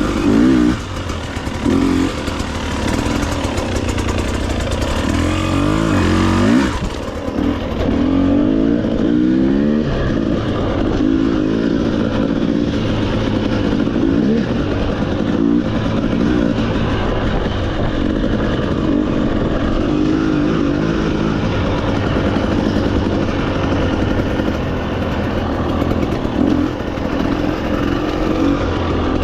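Off-road motorcycle engine running under way, its pitch rising and falling again and again as the throttle is opened and eased.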